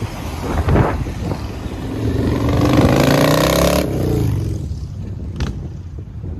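Car engine accelerating, its pitch climbing for about a second and a half before it cuts off suddenly, over a steady rumble of road and traffic noise; a single sharp click comes a little later.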